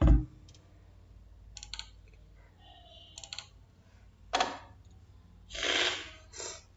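Faint clicking and tapping on a computer keyboard, with two louder short rushing noises about four and a half and six seconds in.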